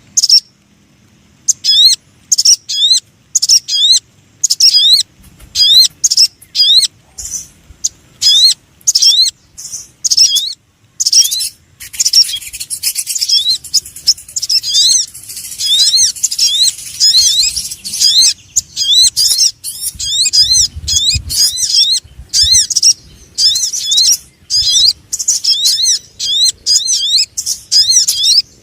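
Bird-trapping lure call for the sogon bird: rapid series of short, high, quickly rising chirps with brief gaps between runs, thicker and overlapping about halfway through.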